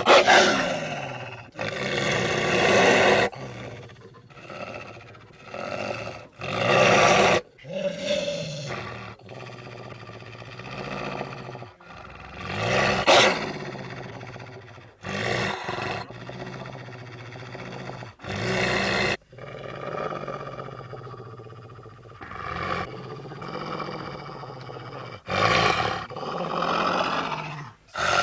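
A string of wolf growls and roars played as separate sound effects, one after another, each cut off abruptly into the next, some with pitch that rises and falls.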